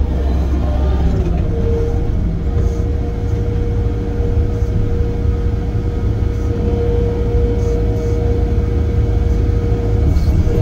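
Heavy equipment's diesel engine running steadily with a deep rumble, and a steady whine coming in about a second and a half in and dropping out near the end.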